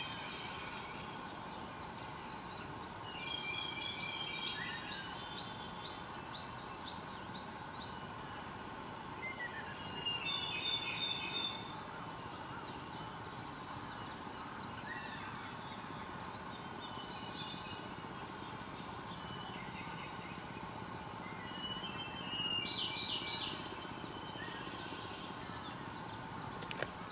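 Wild songbirds calling: a fast series of about a dozen high, descending notes lasting several seconds, then two shorter call phrases, over a steady faint background hum.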